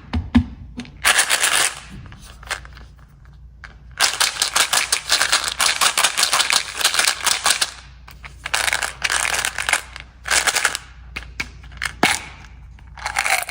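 Snack packets being handled and opened: bursts of rapid crackling and rattling. The longest starts about four seconds in and lasts nearly four seconds, and shorter bursts come every second or two.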